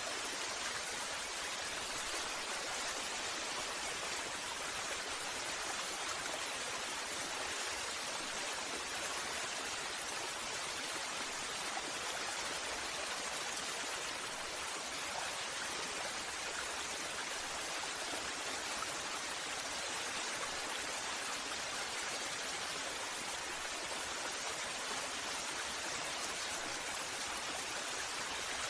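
Waterfall: a steady, even rush of falling water, hissy and unchanging throughout.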